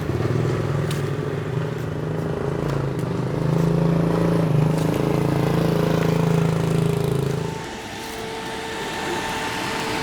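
An engine running steadily close by, with a low hum that cuts off about three-quarters of the way through, leaving a fainter, higher steady hum.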